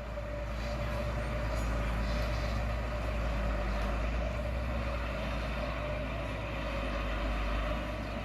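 Heavy construction machinery engine running steadily: a low, even rumble with a steady whine above it.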